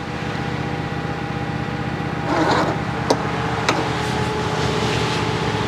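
Lawn tractor engine being cranked by its electric starter, turning over steadily without catching, with two sharp clicks about three and three and a half seconds in. The owner suspects a weak starter or valves that need adjusting.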